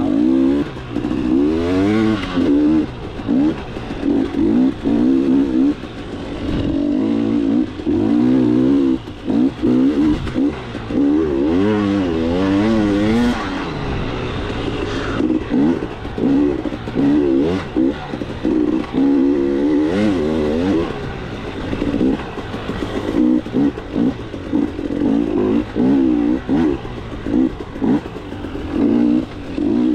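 KTM 300 two-stroke dirt bike engine being ridden hard, its pitch rising and falling every second or so as the throttle is worked and chopped, with short drops in level between bursts.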